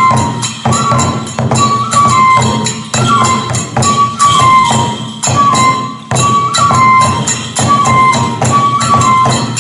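Kagura festival music: a bamboo transverse flute plays a short phrase that repeats about every two and a half seconds, over quick, even strokes on a taiko drum and the jingling clash of small hand cymbals.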